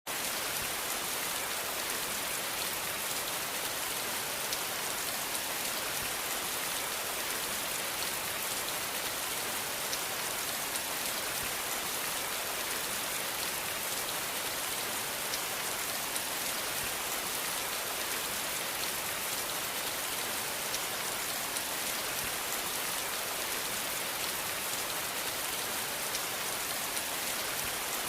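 Steady rain falling, an even hiss of many drops with faint fine patter, unchanging throughout.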